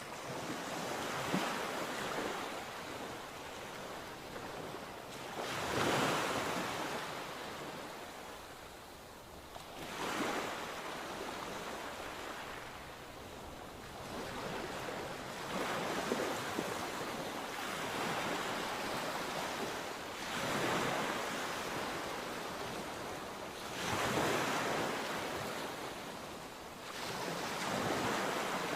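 Sea waves breaking on the shore: a wash of surf that swells and falls back every four or five seconds.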